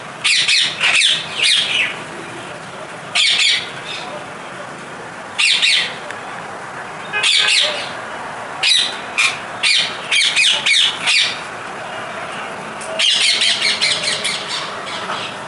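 Parrots calling in short, high-pitched bursts, some single and some in quick runs of three or four, with pauses of a second or two between; the densest run comes near the end.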